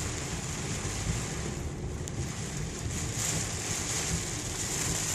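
Heavy rain on a moving car, heard inside the cabin over steady road and wind noise. The rain hiss thins briefly about two seconds in.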